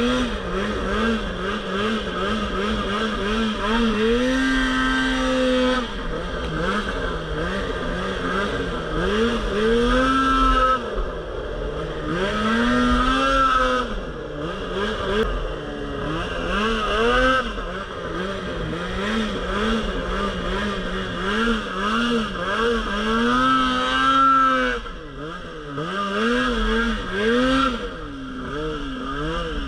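Polaris RMK Pro 800 snowmobile's two-stroke engine revving up and down again and again with the throttle, now and then holding high revs for a second or two.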